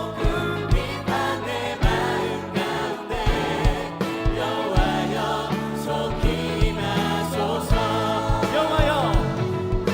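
A contemporary worship band playing a praise song with a group of voices singing, a kick drum beating steadily underneath.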